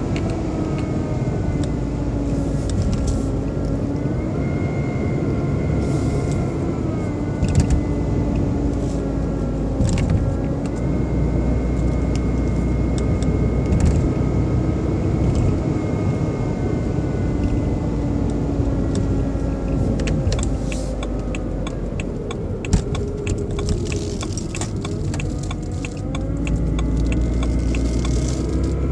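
BMW 120i (E87) engine running with a whirring, motor-like noise that an oil change has not cured and that the owner traces to behind the air-filter box. Its tone rises and falls slowly as the revs change, and a rapid run of sharp ticks joins in during the second half.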